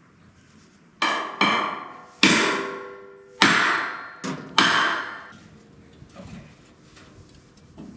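Hammer striking, about six uneven blows in the first five seconds, each ringing briefly afterward.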